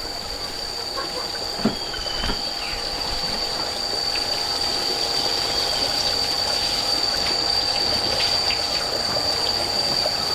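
A steady high-pitched drone holding one constant tone, with fainter lower tones under a hiss and a couple of short knocks about two seconds in.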